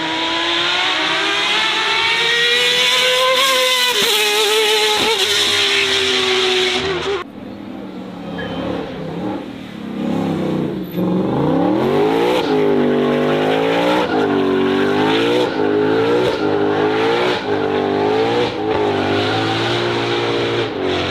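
Racing car engines at high revs. One engine note climbs steadily and cuts off abruptly about seven seconds in. A second engine then rises from low revs and is revved up and down repeatedly, its pitch rising and dropping about once a second.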